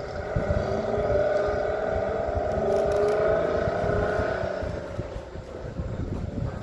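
A heavy engine running under load, its whine rising slowly in pitch, swelling about a second in and fading in the last couple of seconds.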